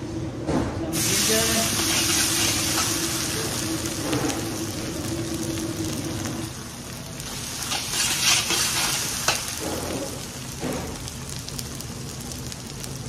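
Chillies, mustard seed and chana and urad dal frying in hot oil in an iron kadai: a steady sizzle that grows suddenly louder about a second in, stirred with a steel spatula that scrapes the pan a few times.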